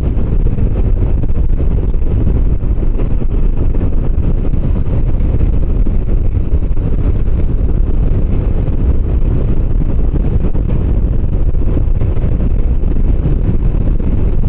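A motorcycle being ridden at a steady speed: steady wind noise on the microphone over the running engine.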